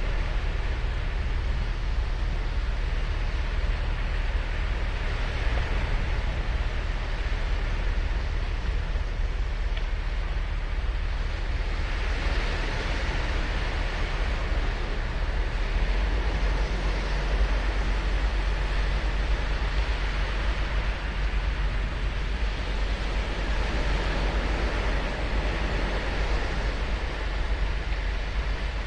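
Ocean surf: waves breaking and washing up a sandy beach in a continuous hiss, swelling as each wave comes in every several seconds, with a steady low rumble that is partly wind on the microphone.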